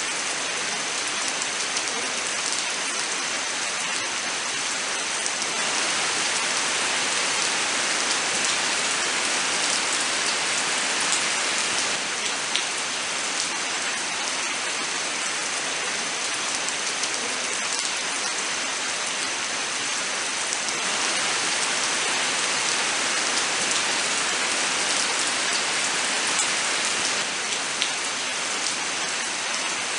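Steady rain falling in a forest, a dense even hiss with scattered single drops ticking through it. It swells slightly twice, about six seconds in and again about twenty-one seconds in.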